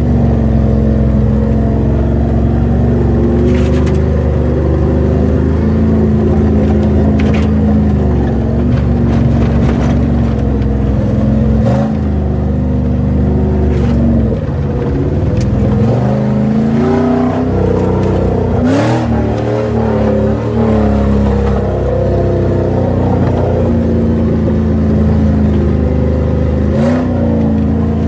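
Jeep Grand Cherokee 4.7 V8 engine heard from inside the cabin, revving up and down under load in low-range off-road driving, with occasional knocks and clatter from the vehicle.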